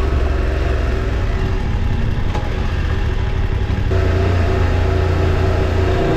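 Motorcycle engine running under way, with a haze of wind and road noise. The engine note eases for a moment about two seconds in and comes back stronger about four seconds in.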